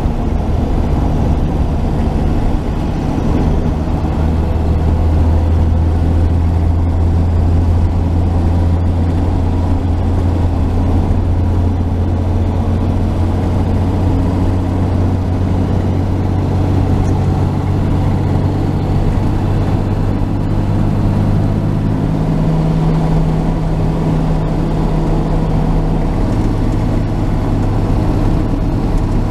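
1949 Chevrolet truck's straight-six engine running steadily under way, fully warmed up and running smoothly. Near the end the engine note shifts slightly as the load or speed changes.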